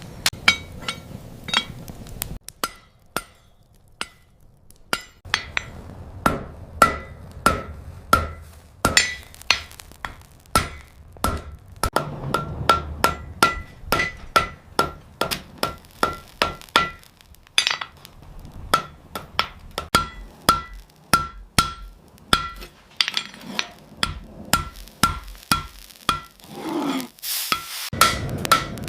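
Hand hammer striking hot steel on an anvil in a steady run of about two blows a second, each blow ringing with the same clear metallic note. The hammering breaks off briefly twice, once after about two seconds and again near the end.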